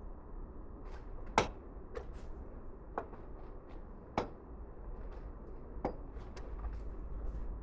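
Irregular sharp knocks and clinks of tools and parts being handled during a gearbox rebuild, the loudest about a second and a half in, over a low steady hum.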